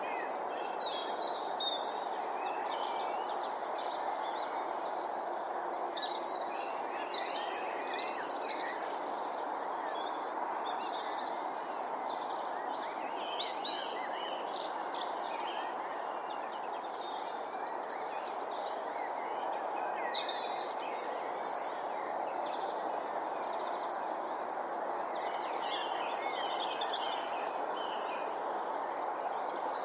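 Birds chirping and calling on and off over a steady background hiss of outdoor ambience.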